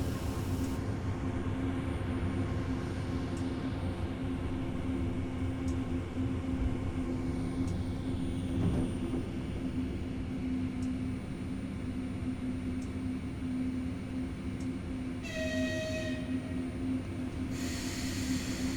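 Ivolga electric multiple unit train moving off, with a steady electrical hum from its traction inverters over the running noise. A short pitched tone sounds briefly about fifteen seconds in, followed by a higher hiss near the end.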